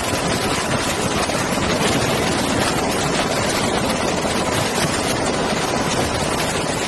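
Fighter jet engines running at taxi power as a formation of F-35As and F-16s rolls by: a steady, loud rush with a faint steady whine.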